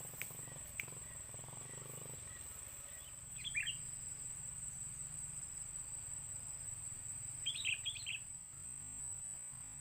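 Sooty-headed bulbul (kutilang) calling: two short bursts of quick chirping notes, a few seconds apart.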